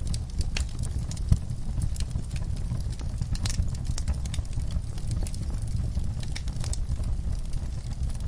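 Wood fire burning in a fireplace: a steady low rumble of flames with scattered crackles and pops, one sharper pop about a second in.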